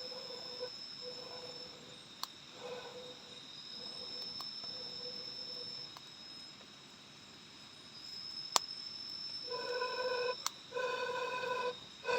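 Night forest insects chirring in two steady high tones, with an animal repeating a short, buzzy call, faint at first and loud and rapid over the last few seconds. A few sharp clicks are scattered through.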